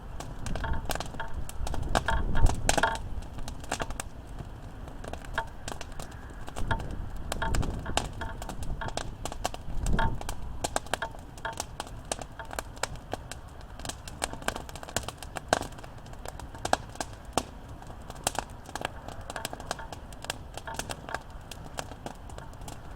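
Wood campfire crackling, with frequent sharp pops and snaps of burning wood. A low rumble swells and fades a few times in the first half, then the crackling goes on more evenly.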